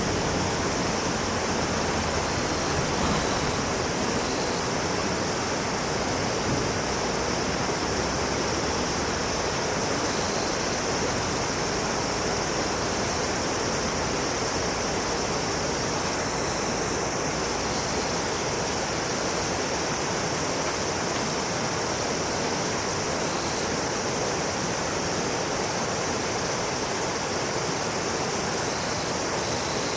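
Kamo River water rushing, a steady even noise.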